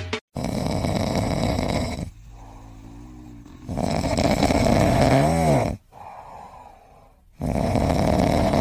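Loud snoring, three long rasping snores about three and a half seconds apart with quieter breaths between them.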